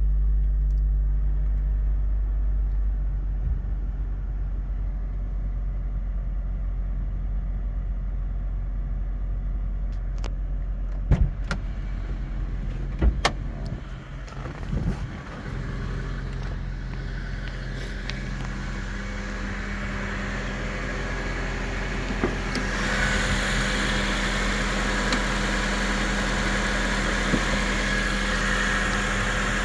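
2002 Acura RSX Type-S's 2.0-litre DOHC i-VTEC four-cylinder engine idling steadily, with a few sharp clicks near the middle. About two-thirds of the way through, a steady hiss joins the engine sound.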